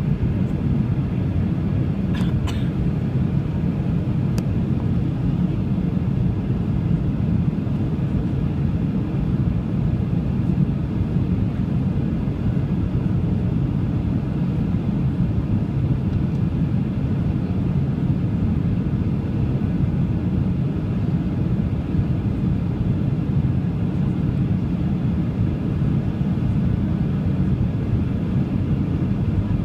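Steady low rumble of a Boeing 737-800's engines and airflow heard from inside the passenger cabin, with a few faint ticks a couple of seconds in.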